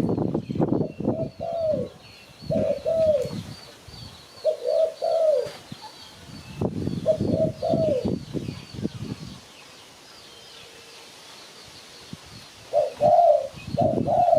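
Spotted dove cooing in repeated short phrases of falling notes, with a pause of about three seconds before it starts again near the end. A small bird twitters faintly and high in the background.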